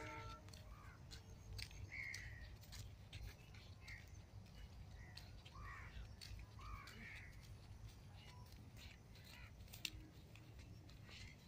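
Faint outdoor quiet with a few scattered bird calls, short and harsh, mostly in the first two-thirds, and light clicks throughout.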